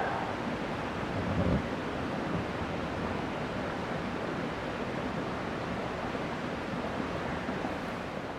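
Steady rushing noise of wind, starting to fade out near the end.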